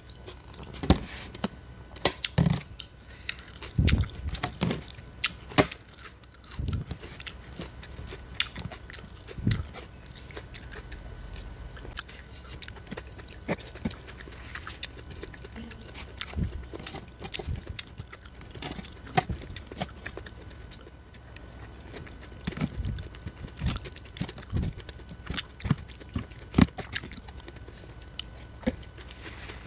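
Close-up chewing of a mixed vegetable and salmon salad, with irregular small clicks and crunches throughout. A metal spoon clicks and scrapes against a clear plastic takeaway container now and then.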